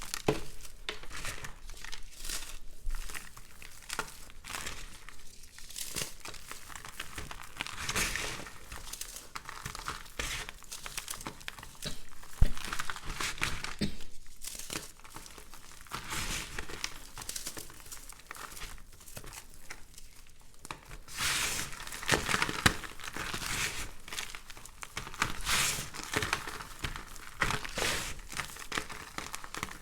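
Brittle microwave-puffed soap being crumbled and crushed by hand: a dense, irregular crackling and crinkling that swells in louder stretches, with one sharp crack about twelve seconds in.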